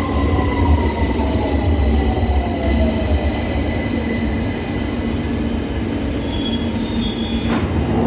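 An underground train is braking and pulling in. Its motor whine falls steadily over the first few seconds, over a heavy rumble, and the wheels squeal high in pitch through the second half.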